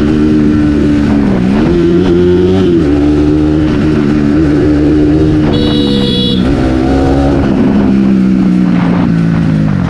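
Bajaj Pulsar NS200's single-cylinder engine and exhaust on the move, holding a steady note that dips and climbs again as the throttle is eased and reopened, about a second and a half in and again near the middle. The pitch drops away at the end.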